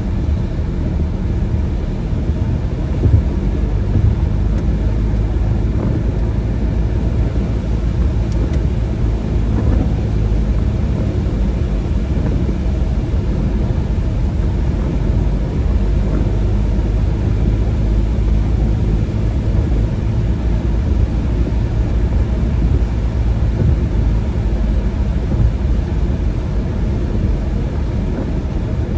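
Car driving on wet roads: a steady low rumble of engine and road noise, with faint steady hum lines and no sudden events.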